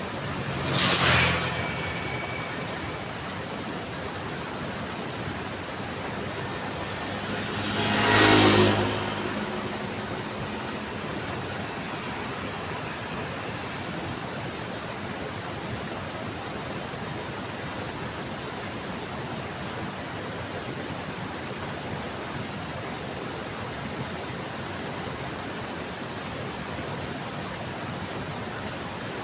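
Steady heavy rain. Two vehicles pass by on the wet road, one about a second in and another about eight seconds in, each rising and fading over a second or so.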